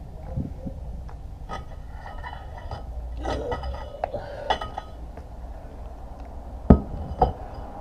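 Hand tools clinking and ringing against the metal parts of a motorcycle kickstart lever while it is being removed, followed by two sharp metal knocks near the end.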